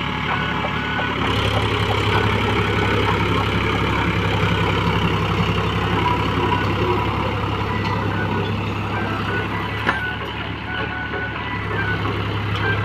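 Powertrac Euro 50 tractor's diesel engine running steadily, a continuous low drone that firms up about a second in, with one short click near the end.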